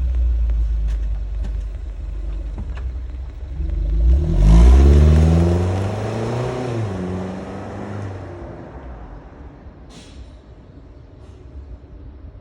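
Suzuki Jimny Sierra's four-cylinder engine through an aftermarket DUSSEL muffler: a low exhaust note, then a sharp rev about four seconds in that rises in pitch and falls back, after which the sound fades away.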